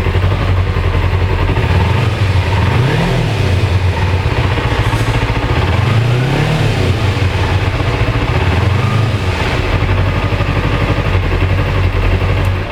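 2007 Kawasaki Ninja 250's carbureted parallel-twin engine idling through its stock dual exhaust and blipped up in revs three times. The engine cuts off at the end.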